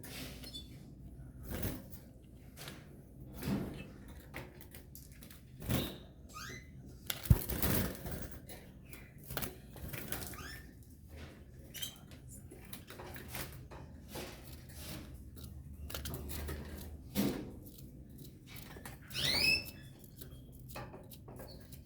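Belgian canaries with their nestlings: scattered light clicks and knocks of movement in the cage, with a few short high chirps, the clearest near the end. A sharp knock about seven seconds in is the loudest sound.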